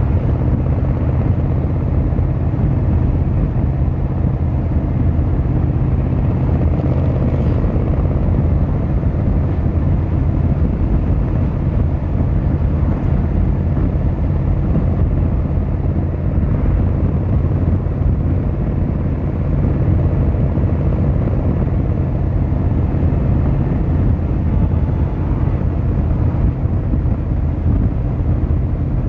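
Yamaha XVZ1300 Royal Star motorcycle's V4 engine and exhaust running steadily while riding, a deep, even low engine note.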